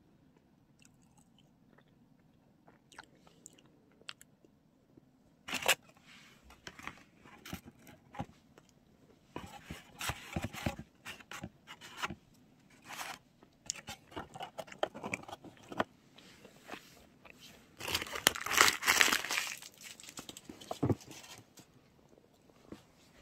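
Close-up eating sounds of a macaron: bites and chewing with crisp crunching of the shell. They begin about five seconds in as a run of short sharp crunches, with a denser, louder stretch near the end.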